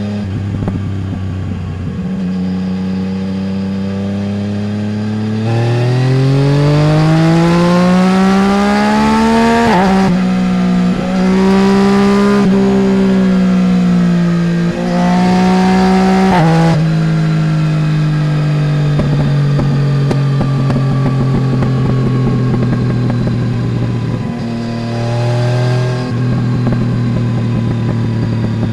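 Yamaha Tracer 900 GT's 847 cc inline-three running through a full Roads Italia exhaust, heard from the passenger seat. It cruises steadily, then about five seconds in it accelerates with rising pitch, upshifting three times. Past the middle it rolls off the throttle with a long falling note, gives a short throttle blip, then settles into a steady cruise.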